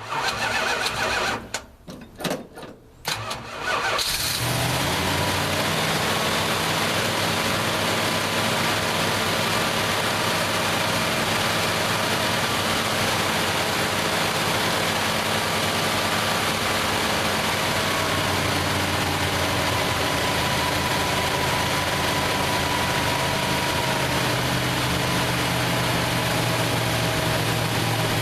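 A 1968 Plymouth Fury's 383 big-block V8, cold, cranks in short uneven bursts for about four seconds on a weakening battery, then catches and settles into a steady run.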